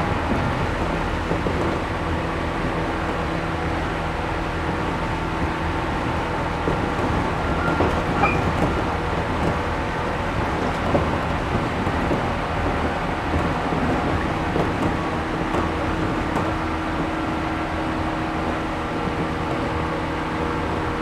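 Running noise heard inside a 113 series 1500-subseries resistance-controlled electric multiple unit: a steady rumble of wheels on rail with a faint steady whine and occasional knocks.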